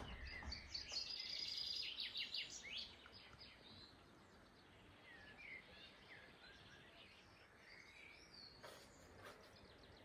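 Songbirds chirping and singing, faint against a steady background hush. A fast run of rapid notes comes about one to three seconds in, followed by scattered short chirps and whistled notes.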